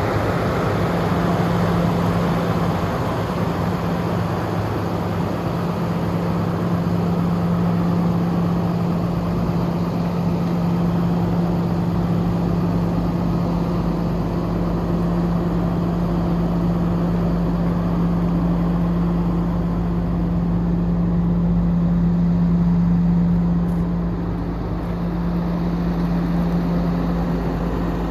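Cummins ISB inline-six diesel of a 2017 International 4300 dump truck idling steadily, with a brief small rise and dip in level about four-fifths of the way through.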